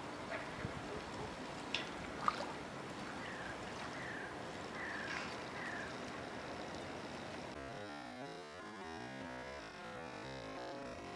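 Outdoor ambience with four short falling chirps about a second apart from a bird, and two sharp clicks. A bit past halfway it gives way to a steady hum with faint electronic background music.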